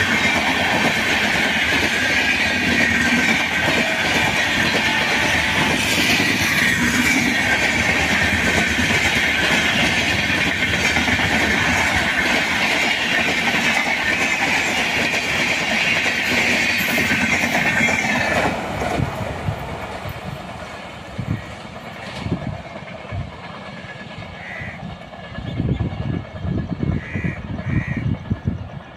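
Coaches of an Indian Railways express train rushing past at speed: a loud, steady roar of wheels on rails with clickety-clack rattling. It fades away about two-thirds of the way through as the train leaves, and a few fainter knocks follow near the end.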